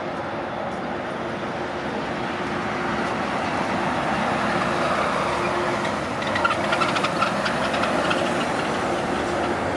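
Steady roar of jet airliner engines at the airport, with a faint steady hum underneath and a few faint ticks about two-thirds of the way through.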